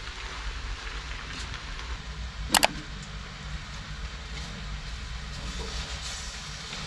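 Chicken kottu frying in a steel wok, a steady sizzle over a low hum. About two and a half seconds in, the metal spatula strikes the pan twice in quick succession.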